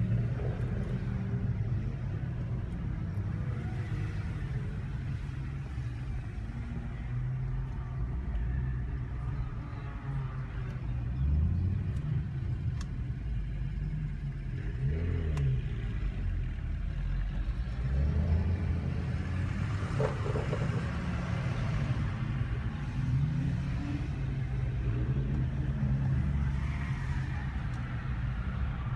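Car engine and road noise heard from inside the cabin while driving slowly, a steady low rumble with a few brief rises and falls in revs.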